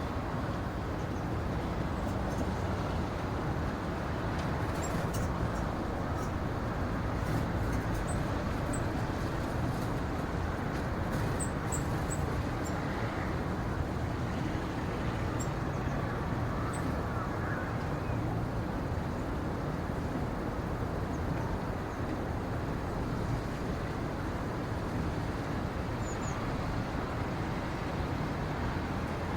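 Steady low rumble of outdoor ambience, without change in level, with a few faint high chirps now and then.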